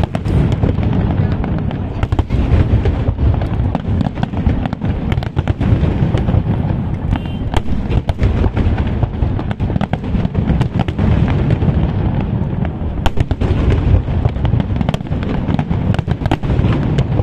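Large aerial fireworks display: a continuous barrage of shell bursts, with deep booms under dense, rapid crackling.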